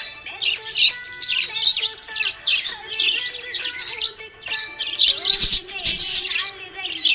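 Budgerigars chirping and warbling without a break: a dense run of quick, high chirps overlapping one another.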